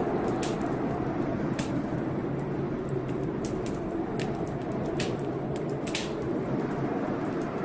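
Wood fire in a fireplace crackling, with a dozen or so sharp, irregular pops over a steady low rush.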